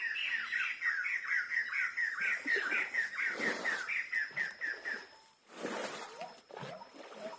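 A bird calling in a rapid run of repeated down-slurred notes, about five a second, that stops about five seconds in. A few short noisy rushes come through it.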